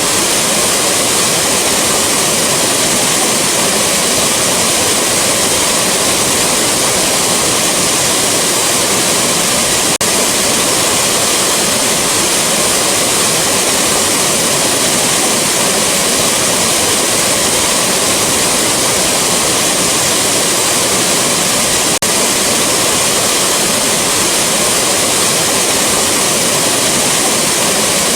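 Waterfall rushing: a steady, dense sound of falling water that does not change.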